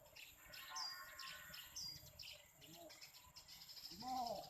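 Eurasian tree sparrows chirping: a string of short, high chirps.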